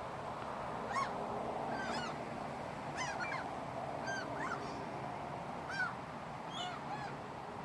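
A flock of gulls calling: short, arched, squealing calls from several birds, one or two a second, over a steady background hiss.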